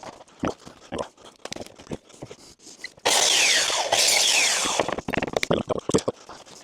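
Carpentry work on wood: scattered knocks and handling clatter, then about three seconds in a loud, harsh noise for about two seconds with a brief break partway through, followed by more knocks.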